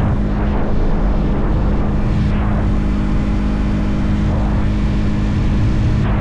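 Motorcycle engine running steadily at cruising speed with its pitch held even, under heavy wind rush and buffeting on the microphone.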